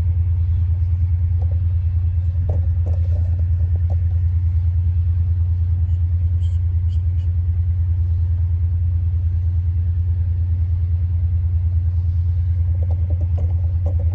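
Diesel locomotive engine running at a steady low rumble, holding an even pitch and level throughout.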